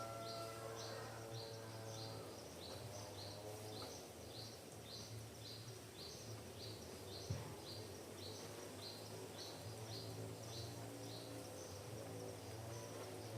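Forest ambience: a short high chirp repeats evenly, about two to three times a second, over a low steady hum and a fainter droning sound that fades and comes back. There is one sharp knock about seven seconds in.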